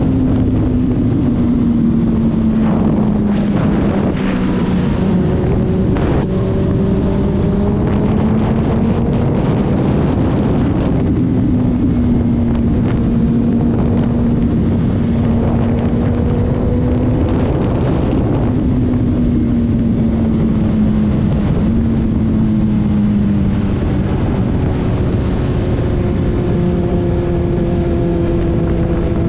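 Car driving at highway speed: a steady engine drone that slowly rises and falls in pitch, under heavy wind and road noise. A few sharp clicks come a few seconds in.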